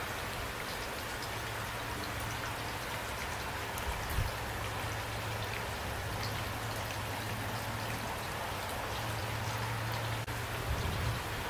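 Steady rain falling, with individual drops ticking on a surface over an even hiss, and a low steady hum underneath. A couple of brief low thumps stand out, about four seconds in and near the end.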